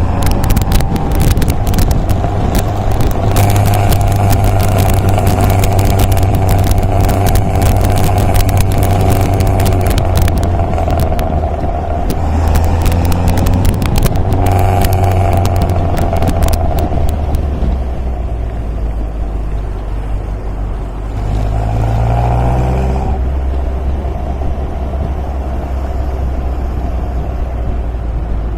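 MG MGA sports car's engine running on the road, its note holding steady, then dropping and rising again a little after twenty seconds. Wind buffets and crackles on the microphone for the first half.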